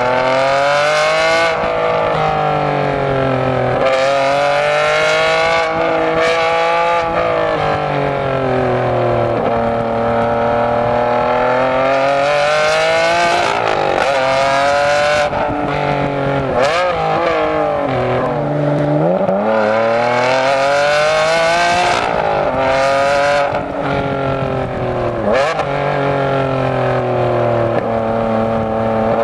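Ferrari Enzo's V12 through a straight-piped, decatted exhaust, driven hard and heard right at the tailpipes: the engine note climbs repeatedly under full throttle and drops sharply at each gear change. Around the middle it falls away as the car slows, with sharp crackles from the exhaust, then climbs again.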